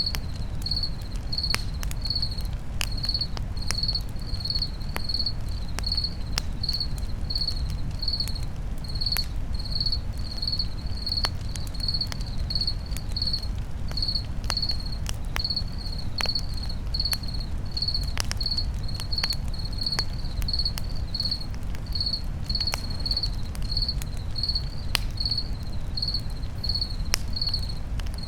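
Crickets chirping steadily, about two chirps a second, over a campfire crackling with irregular sharp pops and a low steady rumble.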